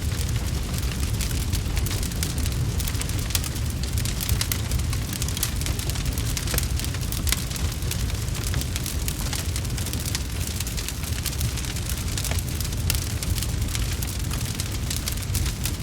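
Wood fire crackling, with frequent sharp, uneven pops and snaps over a steady low rumble.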